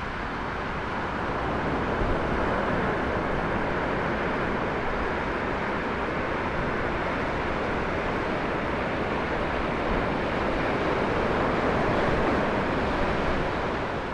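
Ocean surf: a steady rushing wash of breaking waves, swelling slightly about two seconds in and again near the end.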